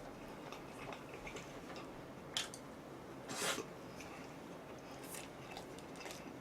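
A person chewing and biting food close to the microphone, with small wet clicks and a brief noisy rustle about three and a half seconds in.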